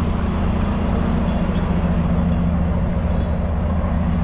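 Semi truck's diesel engine idling steadily, a constant low hum with a faint regular ticking over it.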